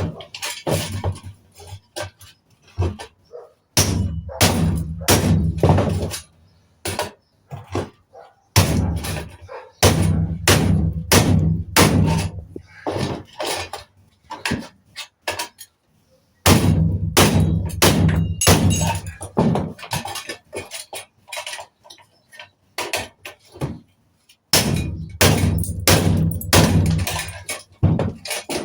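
Repeated hammer blows and clanks on scrap metal, coming in runs of quick strikes with short pauses between.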